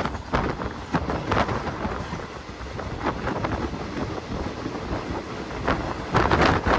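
Passenger train running along the track, heard from aboard: a steady rumble with irregular wheel knocks, and wind buffeting the microphone.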